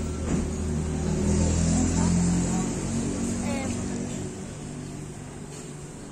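A car engine running close by, growing louder about a second in and then fading away, as a vehicle moves past.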